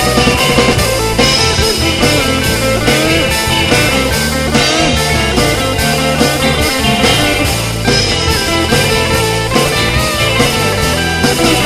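Rock band playing an instrumental passage with no singing: a guitar plays bending lead lines over bass and a drum kit.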